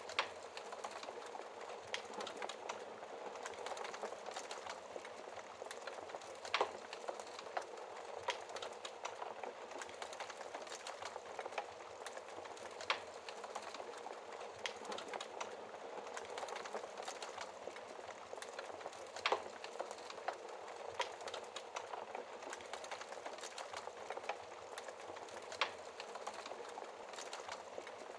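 Wood fire burning in a fireplace, a steady hiss and crackle with frequent small snaps and a louder pop every few seconds.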